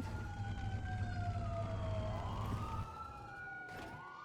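Police siren wailing, two tones sliding slowly down and back up at once, over a low engine rumble that drops away just before three seconds in.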